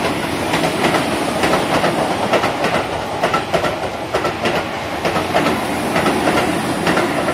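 Keihan electric train passing through the station at speed, its wheels clattering rapidly over the rail joints. The clatter starts right at the outset and stays loud until it eases off near the end.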